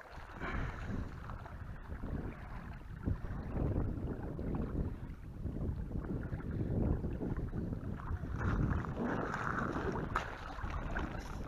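Wind gusting over the microphone, a rumbling noise that swells and eases.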